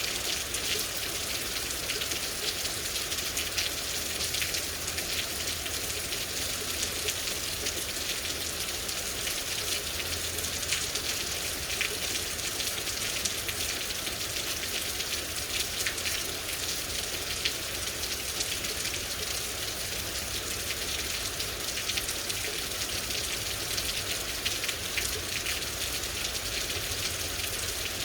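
Steady rain falling, an even hiss with many sharp individual drop hits throughout.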